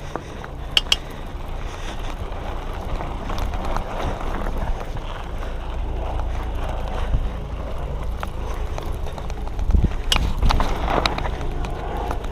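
Diamondback Line hardtail mountain bike rolling along a dirt trail: steady tyre noise and rattling over low wind rumble, with sharp clicks and knocks, several close together about ten seconds in.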